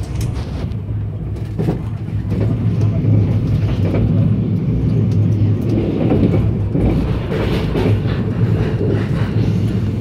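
A train rattling along the track, heard from inside the passenger carriage: a steady low rumble of wheels on rail, broken by a few short, sharp clacks.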